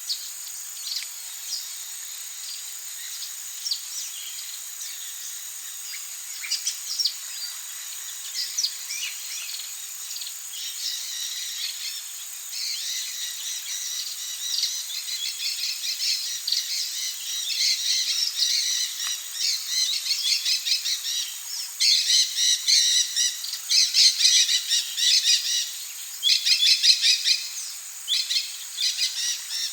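Amazon rainforest birds calling and chattering over a steady high-pitched insect drone. The calls grow busier and louder past the middle, with fast runs of repeated notes near the end.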